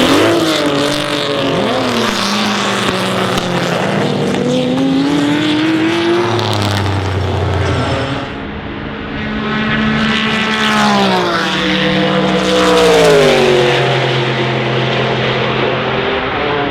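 Racing car engines at high revs, the note climbing and dropping through gear changes. A loud pass comes about two-thirds of the way through, its pitch falling as the car goes by.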